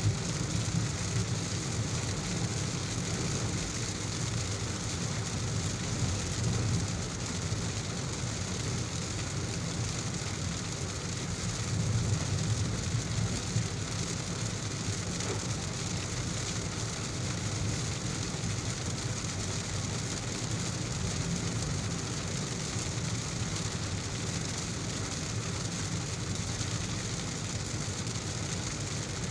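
Heavy rain falling steadily over the low, steady road rumble of a car driving.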